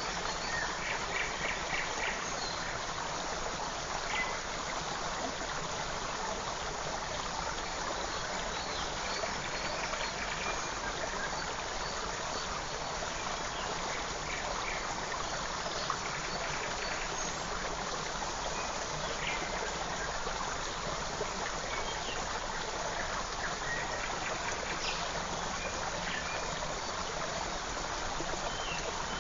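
Forest stream flowing steadily, with faint short bird chirps now and then above the water.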